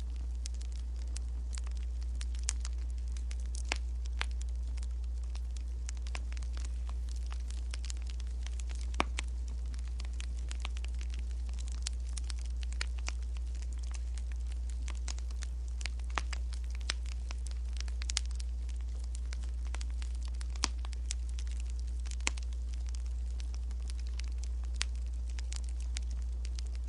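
Firewood burning with irregular sharp crackles and pops over a steady low rumble.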